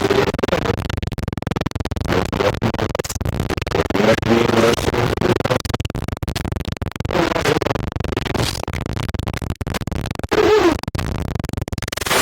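Loud, crackling TV static interference that keeps breaking up and cutting out, with garbled warbling tones and voice-like fragments drifting through it.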